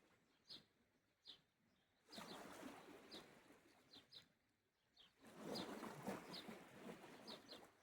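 Small sea waves washing ashore, swelling twice, about two seconds and five seconds in, with short high bird chirps scattered throughout.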